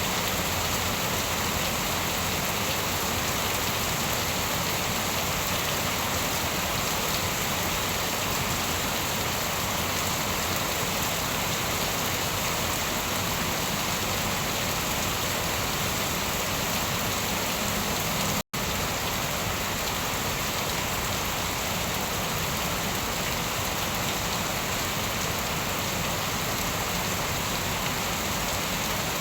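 Steady rain falling, an even hiss. About two-thirds of the way through it cuts out for a split second, then carries on.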